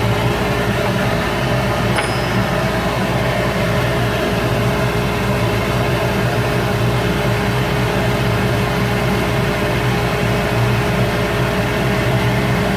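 Shop Fox W1836 midi wood lathe running steadily, its motor giving a constant hum with a steady whine. There is a single brief click about two seconds in.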